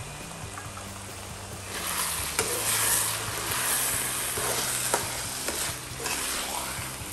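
A milkfish and diced-vegetable filling sizzles in a nonstick frying pan. The sizzle grows louder about two seconds in, when the mixture is stirred and turned with a spatula and spoon. Now and then the utensil scrapes or taps against the pan.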